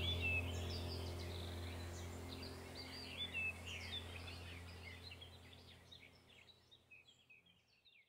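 Small birds chirping and twittering over a steady low hum, the whole sound fading out gradually to silence.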